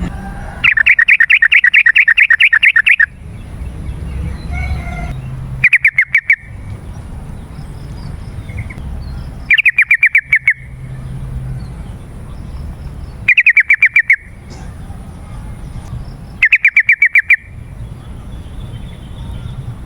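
Yellow-vented bulbul (trucukan) singing in repeated bursts of rapid, loud chattering notes. A long burst comes near the start, then four shorter ones every few seconds, over a low background rumble.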